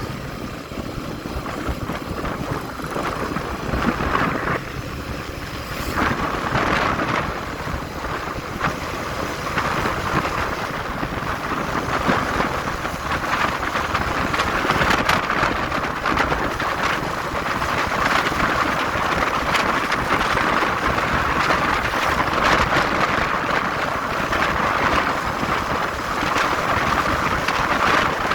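Wind rushing over the microphone of a moving motorcycle, with engine and road noise underneath, swelling and easing as the ride goes on.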